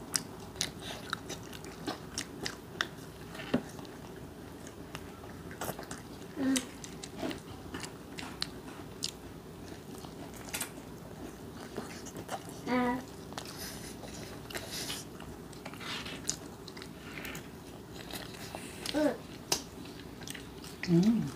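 People biting and chewing crisp cheese-seasoned fried chicken, with many short crunches and clicks throughout. A few brief voice sounds come in between bites.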